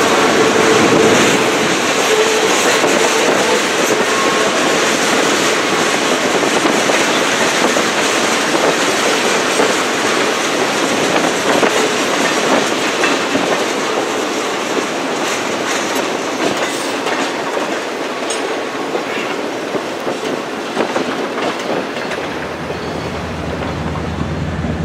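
Freight train boxcars rolling past, steel wheels clicking over the rail joints, with a faint wheel squeal near the start. About three seconds before the end, a low locomotive drone comes in.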